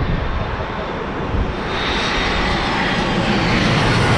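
Airliner engine noise, a steady rush that grows louder from about halfway through as the aircraft passes close, with a faint high whine sliding slowly down in pitch.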